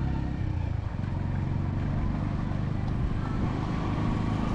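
Road traffic: motor vehicle engines running steadily close by, a continuous low rumble.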